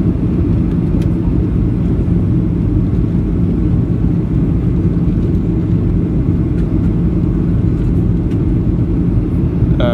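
Steady cabin noise inside a Boeing 737-800 on descent: a low rumble of engines and airflow with a steady hum underneath.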